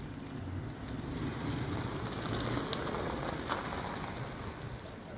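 Ford Mustang's engine idling: a steady low rumble, with a few sharp clicks about halfway through.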